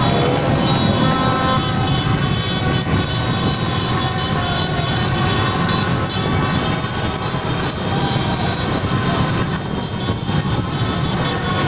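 Dense traffic of many motorbikes in a celebration convoy, engines running with horns honking and overlapping steadily.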